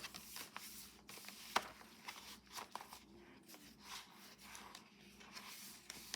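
Paper and card rustling and light tapping as the pages and inserts of a handmade junk journal are handled and turned, with one sharper click about one and a half seconds in.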